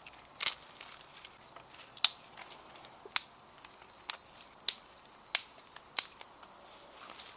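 Single raindrops falling onto a tarp shelter overhead: sharp separate taps at uneven intervals, roughly one a second, over a soft steady hiss of rain.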